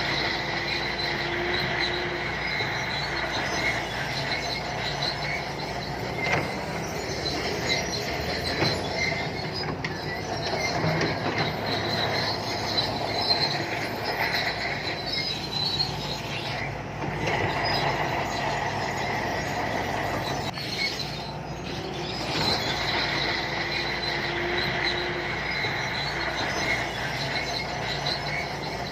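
SANTUI crawler bulldozer working, its diesel engine running under load while the steel tracks squeal and clank. The high squeal comes and goes as the machine moves.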